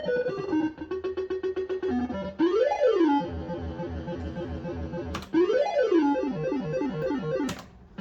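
Bell-Fruit Wild Cats fruit machine playing its electronic sound effects: quick runs of beeping notes, then two rising-and-falling pitch sweeps about a third of the way in and past the middle, the second followed by a stepping run of falling notes. Two sharp clicks stand out, one just before the second sweep and one near the end.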